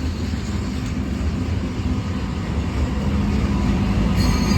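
Freight train rolling past with a steady low rumble. A mid-train distributed-power diesel locomotive approaches, and its engine hum grows louder over the last second or so.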